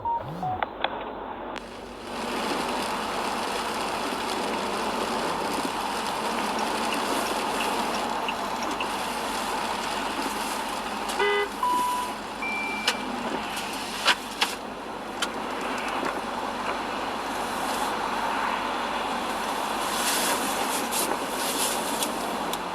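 Steady road and traffic noise from a moving car, with one short horn toot about halfway through and a few brief beeps and clicks.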